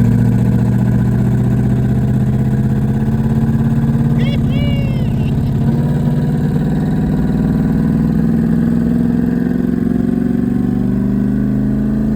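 Twin-turbo LS V8 engine of a limousine running steadily, its pitch climbing slowly and evenly as the revs rise. A brief high squeak chirps a few times about four seconds in.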